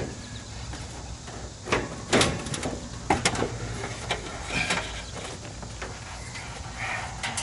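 Metal knocks, clanks and short scrapes from parts and tools being handled while an old HVAC unit is taken apart. The loudest come about two and three seconds in, over a steady low hum.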